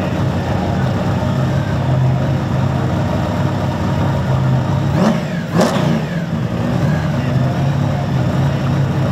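Supercharged big-block V8 of a VF Commodore burnout car idling, with two short, sharp throttle blips about five seconds in.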